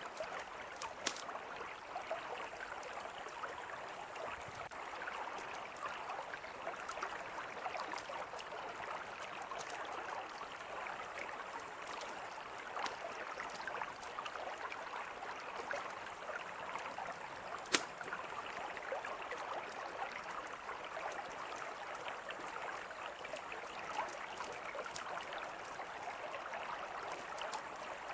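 A mountain river flowing in a steady rush, with a campfire crackling in scattered sharp pops, the loudest about 18 seconds in.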